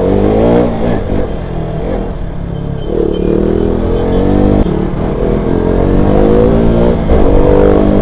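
KTM RC 200's single-cylinder engine being ridden hard. Its note climbs and drops about four times as the throttle opens and the gears change, over steady low wind rumble.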